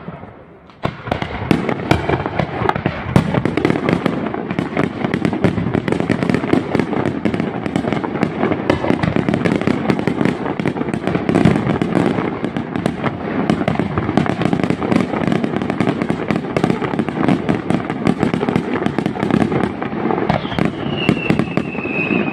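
Fireworks display: a dense, continuous barrage of bangs and crackling as aerial shells burst in quick succession. It starts about a second in after a brief lull, and near the end a high tone falls slightly in pitch.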